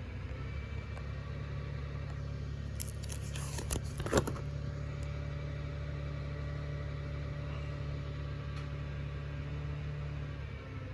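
Steady low hum with several even pitches, broken about three to four seconds in by a brief burst of handling noise ending in a sharp tap.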